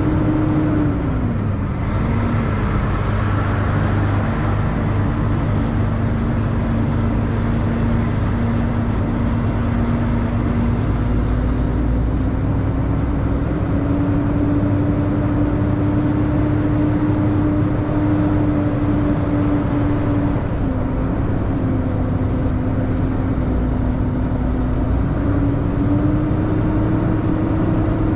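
2000 Freightliner FLD 112 semi truck's diesel engine running while the truck drives slowly. Its pitch drops about two seconds in, climbs gradually, dips again about twenty seconds in and rises near the end as the engine speed changes.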